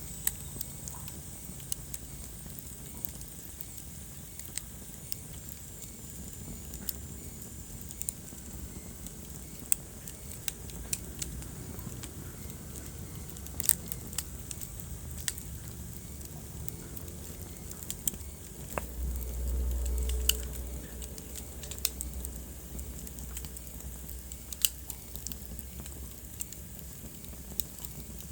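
Wood fire burning in a fireplace: irregular sharp crackles and pops over a low, steady rumble, with a louder low rumbling swell of about two seconds around two-thirds of the way through.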